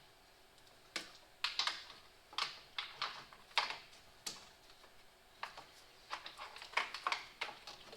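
Irregular sharp clicks and taps of plastic wiring clips, hold-downs and connectors being handled and snapped into place while headlight wiring is routed.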